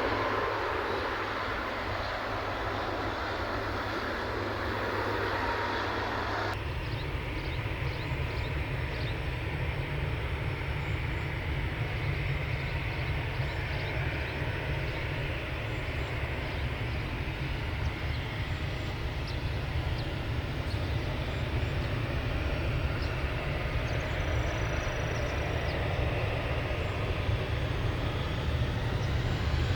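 Jet airliner engine noise, a steady rumble with wind buffeting the microphone. About six seconds in, the sound changes abruptly to a deeper, heavier rumble.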